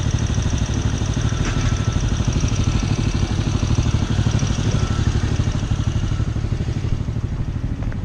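A small motorcycle or scooter engine running steadily close by, with an even, rapid pulse and no revving.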